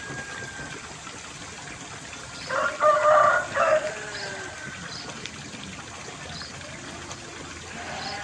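A rooster crowing once, loud, for about a second and a half, over a steady trickle of water and faint short chirps of small birds.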